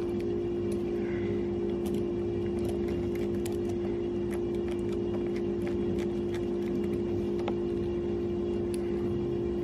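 A steady low machine hum holding one pitch, with a second tone beneath it. Faint scattered clicks and ticks of small screws and a tool as a longboard hub-motor wheel is fastened on.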